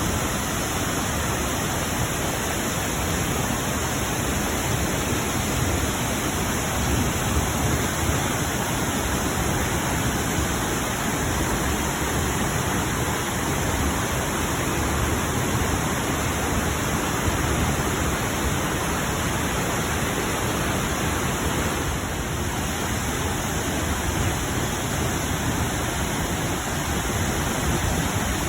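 Waterfall: a steady rushing noise of falling water that does not change.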